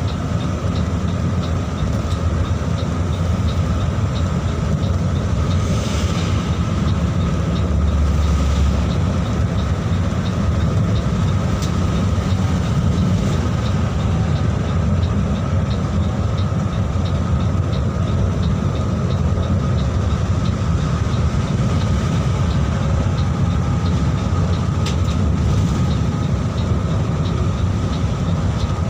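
Mercedes-Benz 1626 NG bus under way, its diesel engine and road noise making a loud, steady low rumble with a few faint clicks and rattles.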